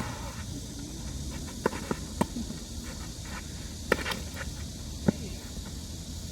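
Tennis ball knocks on court: about six short, sharp hits and bounces, the loudest a little before the middle and about a second later, over steady outdoor background noise.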